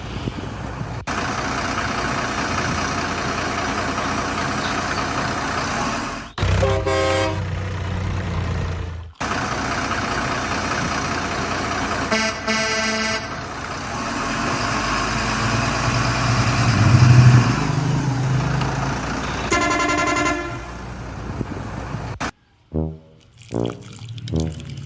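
Miniature truck running with a steady engine rumble, sounding its horn in three short blasts; music takes over near the end.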